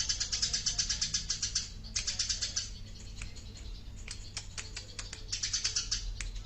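Small songbirds singing in rapid, high-pitched chattering trills. The trills come in several bursts, with single sharp chips scattered between them.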